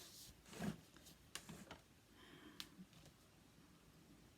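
Near silence: quiet room tone with a few faint, brief taps and rustles.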